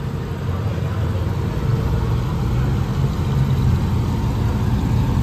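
Classic Chevrolet Impala lowrider's engine running low and steady as the car rolls slowly in, growing a little louder as it nears.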